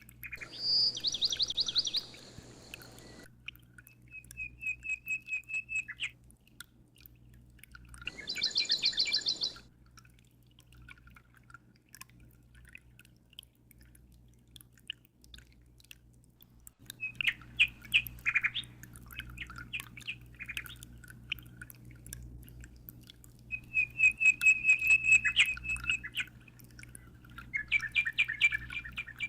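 Small songbirds chirping and trilling in repeated bursts of rapid high notes, some several seconds long, over a steady low hum.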